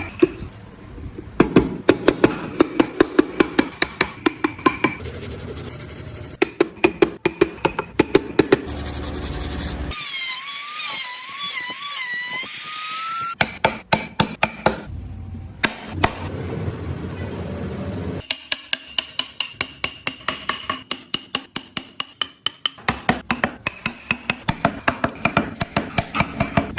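Hammer blows on a carving chisel driven into wood, in runs of quick, evenly spaced taps. For about three seconds in the middle the tapping stops and a warbling, wavering whistle-like tone takes its place.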